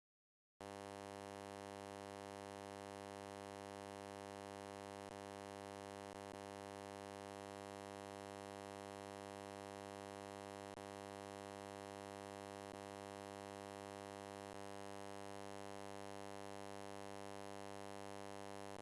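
Steady, harsh electronic buzz with many evenly spaced overtones from a computer's sound output. It is set off by PowerShell printing an image file's raw contents. It starts about half a second in and holds unchanged, with a few faint clicks.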